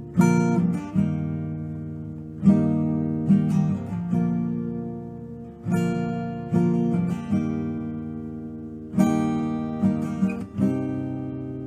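Acoustic guitar strumming chords in a slow, uneven rhythm, each chord left to ring and fade before the next strum.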